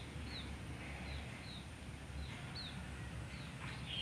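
A bird chirping: about eight short high chirps, each falling in pitch, roughly two a second, over a low steady rumble.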